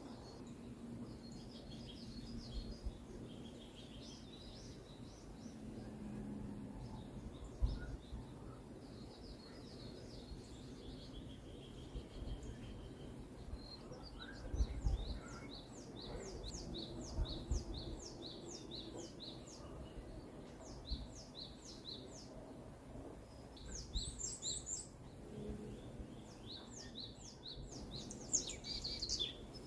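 Forest birds singing and chirping, with one bird repeating a quick series of high notes, several a second, through the second half. A low, uneven rumble with a few soft thumps lies underneath.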